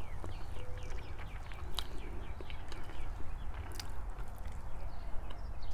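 Small birds chirping in quick, short, repeated notes, thickest in the first half. A few sharp clicks stand out, over a steady low rumble.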